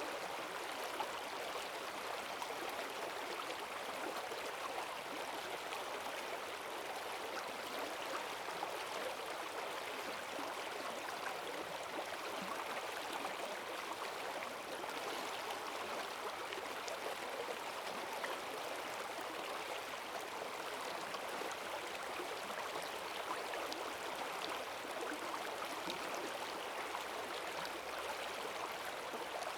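Forest stream swollen with rainwater, rushing and gurgling steadily in a strong current.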